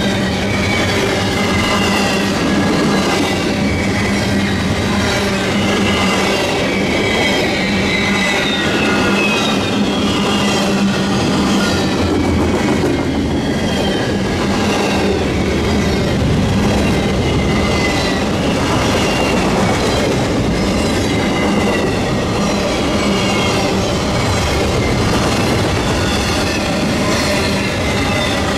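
Double-stack intermodal freight train's well cars rolling past close by: a steady rumble of steel wheels on the rail, with a wavering high-pitched squeal from the wheels.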